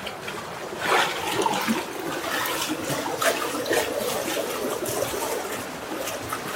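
Rushing, splashing water: a steady hiss of flowing water with small splashes through it.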